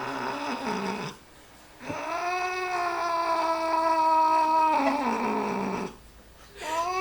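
Domestic cat yowling in protest at being dried after a bath. One long, steady, low yowl of about three seconds sinks in pitch as it ends. The tail of an earlier call comes just before it, and another yowl starts near the end.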